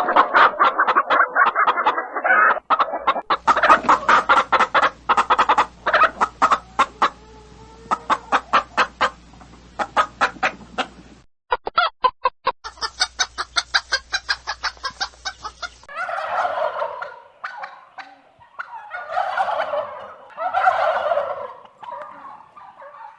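Domestic fowl clucking in fast runs of short notes, with a brief gap near the middle, then several longer, fuller calls over the last seven seconds.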